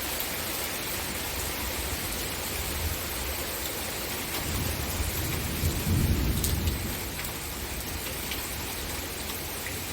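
Steady rain falling. About halfway through, a low rumble swells for a couple of seconds and then fades.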